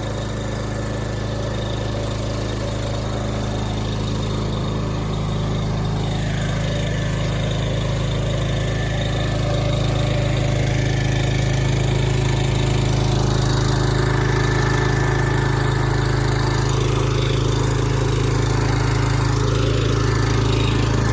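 Engine of a PackRat pod-loading truck running steadily, a low even hum that grows louder about halfway through.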